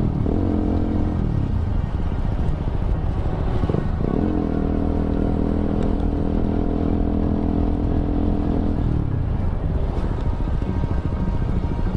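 Motorcycle engine running in slow stop-and-go traffic. The revs drop at the start, climb again about four seconds in, hold steady, then ease off about nine seconds in.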